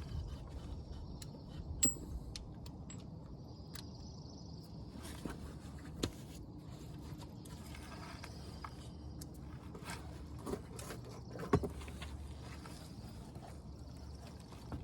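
A few scattered metallic clinks and knocks of a 12 mm wrench on the front brake caliper bolts as they are worked loose, over a faint high buzz that comes and goes.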